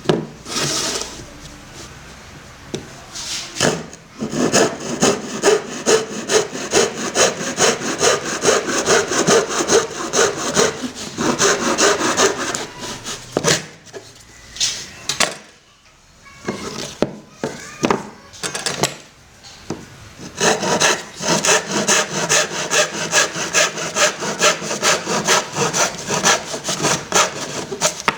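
Hand saw cutting wood in quick, even back-and-forth strokes, in two long spells with a pause of several seconds around the middle.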